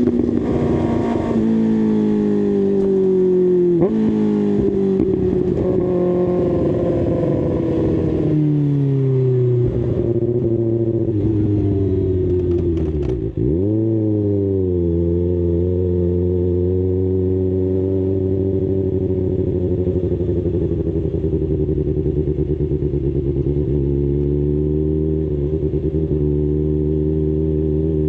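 2024 Kawasaki ZX-6R's inline-four engine slowing down, its pitch falling in steps through the first ten seconds or so. About 13 seconds in the pitch drops sharply and comes back up, and the engine then runs steadily at a low, even pitch.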